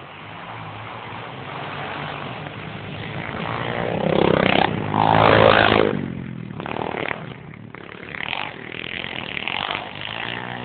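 Pit bike engine revving as the bike passes close, loudest about four to six seconds in with the pitch rising and falling, followed by short bursts of throttle as it moves off.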